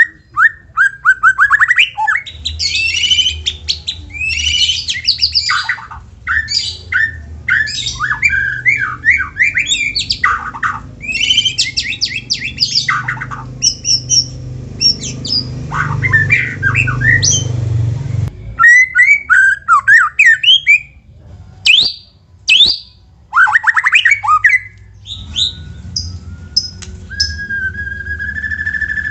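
White-rumped shama (murai batu) singing loudly and without pause: fast varied phrases of trills, rising and falling whistled sweeps and harsh chattering notes, ending on a long held whistle. A low hum sits under the song and drops away about two-thirds of the way through.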